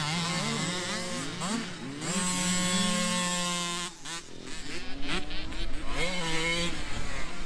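Motocross dirt bike engines revving on the track, pitch climbing and falling as the riders work the throttle and shift. About four seconds in the loud revving drops away and a choppier, pulsing engine sound takes over.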